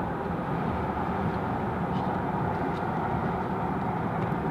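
Steady road and engine noise heard from inside a moving vehicle, an even low rumble that does not change.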